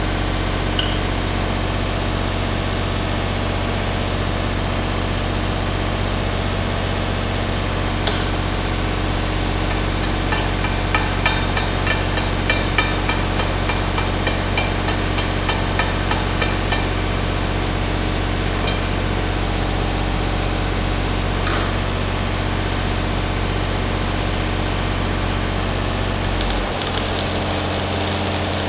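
A machine running with a steady low hum, with a run of light taps for several seconds about ten seconds in. Near the end the hum's low tone drops and changes.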